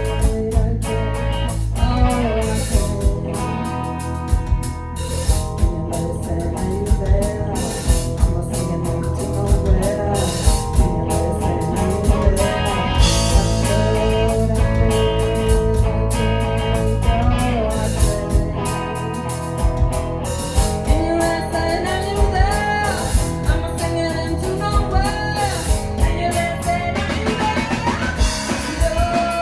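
A live band playing a song: a singer over guitar, bass and a drum kit keeping a steady beat.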